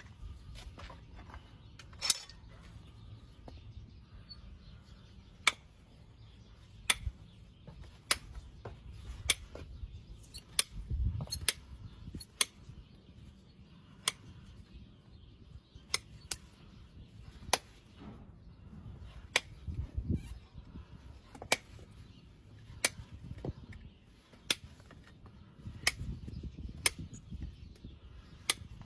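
Sharp snapping clicks from a hoof-trimming tool cutting into hoof horn, repeating about every one to one and a half seconds over a low rumble.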